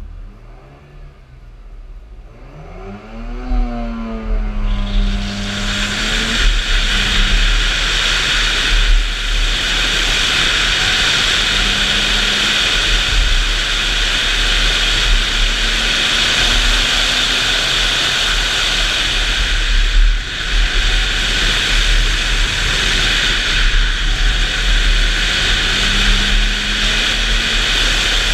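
A car engine revs up as the car launches from a standstill on an autocross run. Then a loud, steady rush of wind noise on the microphone takes over, with the engine note rising and falling faintly beneath it.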